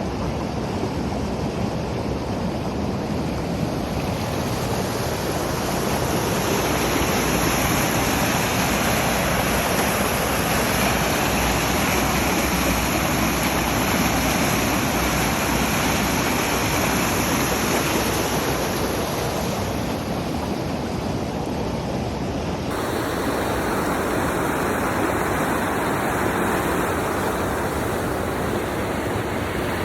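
Steady rush of river water tumbling over rapids. The water sound changes character abruptly about three-quarters of the way through.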